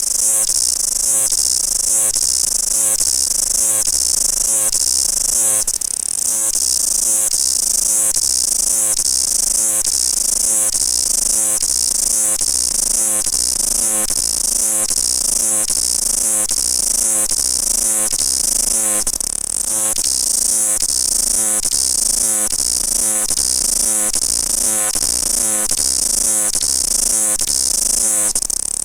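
Loud chorus of cicadas: a high, shrill trill pulsing evenly about every two-thirds of a second.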